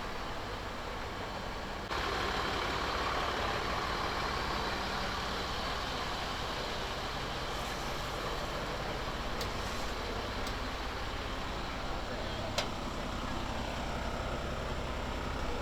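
Steady hum of idling vehicle engines mixed with indistinct voices, stepping up abruptly about two seconds in, with one sharp click near the end.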